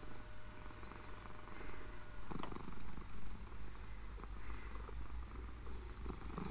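British Shorthair cat purring steadily.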